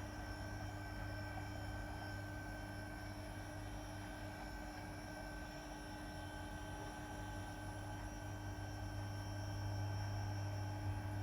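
Steady electrical hum with several faint constant whining tones above it, growing slightly louder about nine seconds in.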